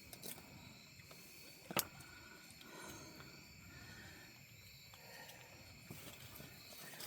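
Faint steady chorus of night insects, with a single sharp click a little under two seconds in.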